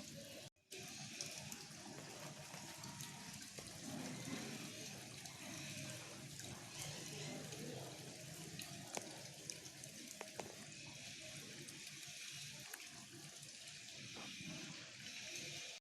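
Faint steady hiss of background noise, with a few small clicks and a brief dropout about half a second in.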